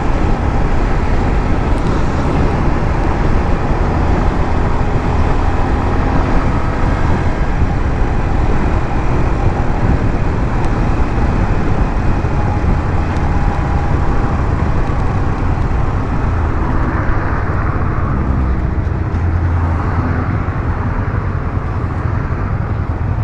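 150cc motorcycle riding in traffic: the engine running steadily under a heavy low rumble of road and wind noise.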